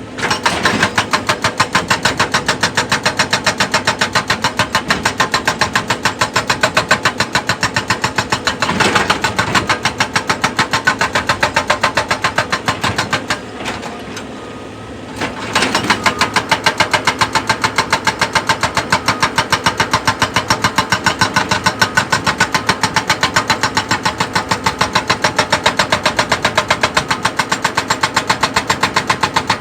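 Excavator-mounted hydraulic rock breaker hammering, a rapid even train of many blows a second. It stops for about two seconds near the middle, then starts again with a heavy first blow.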